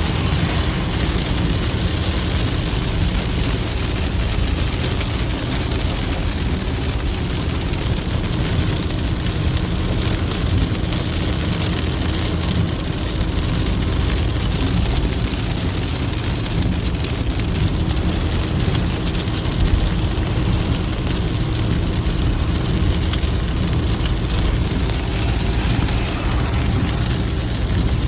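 Heavy rain on a car driving at highway speed: steady rain noise mixed with tyre and engine noise.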